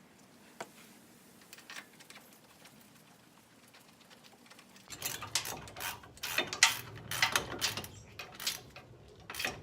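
Metal hand tools clicking and clinking against metal, a run of irregular sharp clicks and knocks starting about halfway through, while the bolts of a Ford F-150 front wheel hub assembly are run in.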